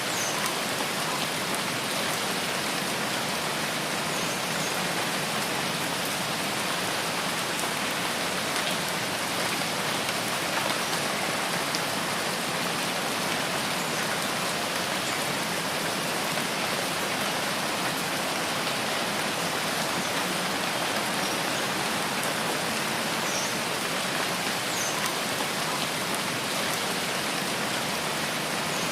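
Steady rain falling in a rainforest, an even hiss of drops with no change in strength. A few faint, short high chirps sound now and then above it.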